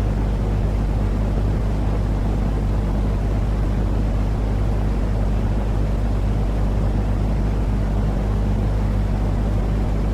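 Steady, unchanging low rumbling noise with a deep hum underneath, like a running engine or cabin drone, played as a continuous sleep noise for babies.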